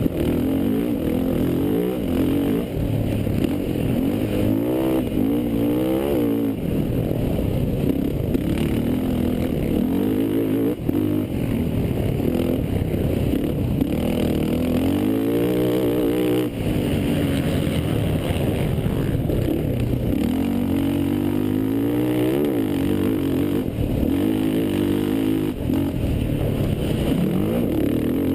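Racing quad engine revving hard and easing off over and over, its pitch climbing and dropping every few seconds.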